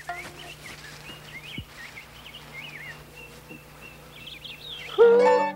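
Birds chirping and twittering in many short, wavy calls over a faint steady hum. About five seconds in, a loud held musical note begins.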